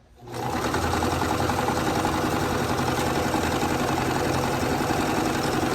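Electric sewing machine running at a steady speed, stitching a seam. It starts just after the beginning and does not stop.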